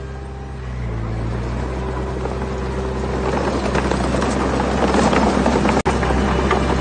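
Diesel engine of earthmoving machinery running steadily, with a dense clattering noise building from about three seconds in. All sound drops out for an instant near the end.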